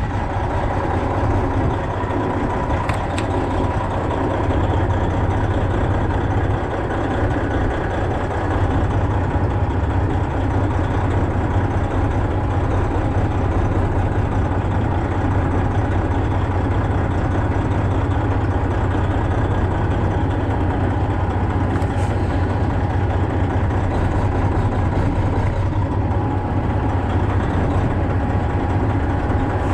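Semi truck's diesel engine running steadily, an even low drone with no change in speed.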